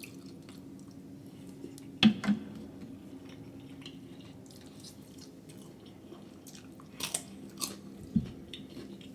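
Close-miked chewing and biting of food, with a few sharp wet clicks about two seconds in and again near the end, over a steady low hum.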